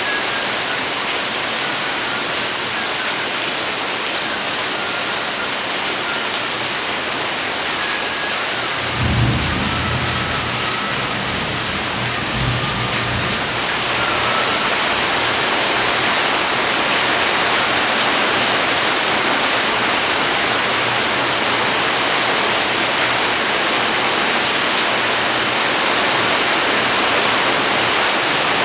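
Steady rain pouring down, with a low rumble of thunder lasting a few seconds about a third of the way in. The rain grows a little louder after the thunder.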